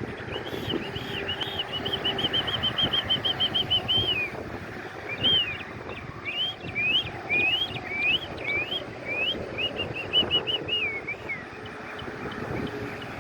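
A songbird singing three phrases. The first is a fast run of repeated arched notes lasting a few seconds. The second is a series of separate rising, slurred notes. The third is another quick run that ends in falling notes, all over a steady low background hum.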